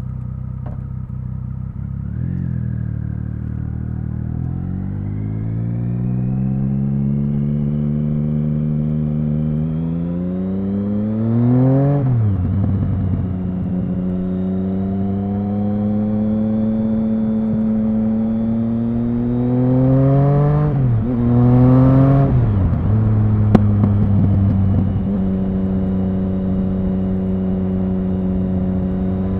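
Triumph Speed Triple 1050's inline three-cylinder engine pulling up through the revs under acceleration. Its pitch rises steadily until a sudden drop at a gear change. It runs steadily, then dips and rises twice in quick succession about two-thirds of the way through, and settles into steady running again.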